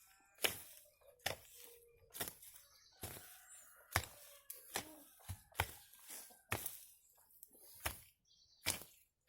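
A hoe chopping into the garden soil and weeds, a sharp strike about once a second.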